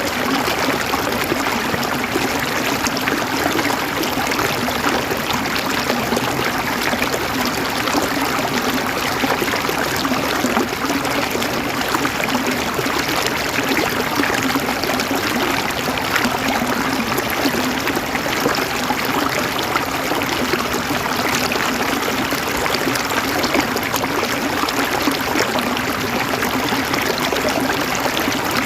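Flowing water: a steady, unbroken rush and trickle that keeps the same level throughout.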